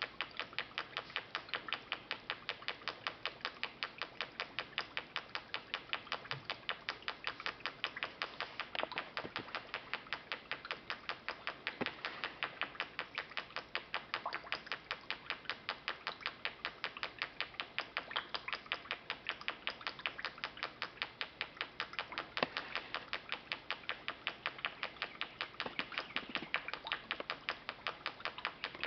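Putt-putt (pop-pop) boat steam motor running, making an even train of sharp ticking pops at about three a second as its water tube pulses and blows bubbles at the water surface.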